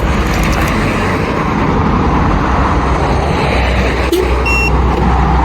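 Subaru Outback's 2.5-litre flat-four engine running steadily after a remote start with the hood only cracked open, showing that the hood safety switch does not block the start unless the hood is fully open. A short, high beep sounds once about four and a half seconds in.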